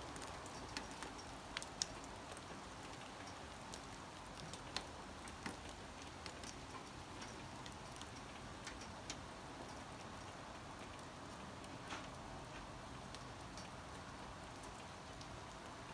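Light rain: a faint steady hiss with scattered drops ticking irregularly on a surface.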